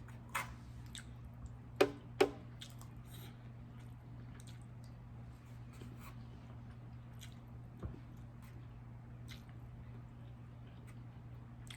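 Close-up wet chewing and mouth sounds of someone eating Chinese takeout, with scattered small clicks and two sharper knocks about two seconds in, over a low steady hum.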